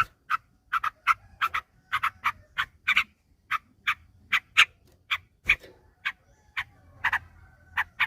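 Yellow-vented bulbul (trucukan) calling: a long run of short, sharp chirping notes, about two to three a second.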